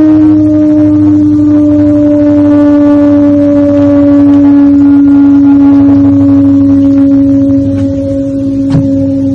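Loud, unbroken horn-like drone on one low pitch, sinking very slightly as it goes, over a low rumbling hum, the kind of sound reported as a mysterious 'strange sound' in the sky. A sharp click sounds near the end.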